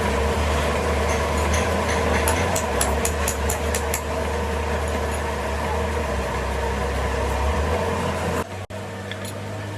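Steady low hum of factory machinery running, with a quick run of light clicks about two to four seconds in. The sound cuts off at about eight and a half seconds and goes on as a quieter hum.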